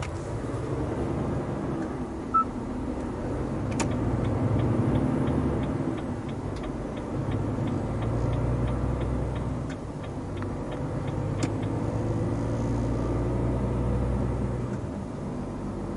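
Truck engine running in the cab on the move, swelling and easing, with the turn-signal indicator ticking about three times a second from about four seconds in to about eleven seconds in. A brief beep sounds about two seconds in.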